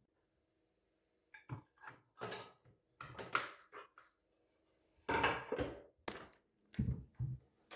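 Household objects being handled indoors: about a dozen short, irregular knocks and clatters, with a busier cluster about five seconds in.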